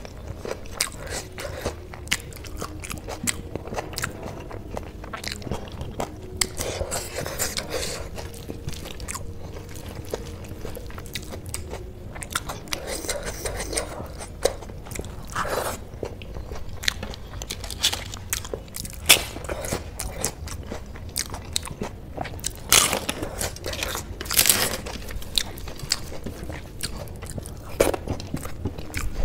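Close-miked chewing and wet mouth clicks of someone eating rice mixed with curry by hand, with fingers working the food on a steel plate now and then. The clicks come irregularly, several a second, a few louder ones near the end.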